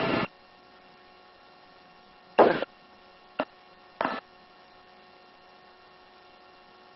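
Faint, steady electrical hum on a helicopter's headset intercom line, broken by three short blips about two and a half, three and a half and four seconds in.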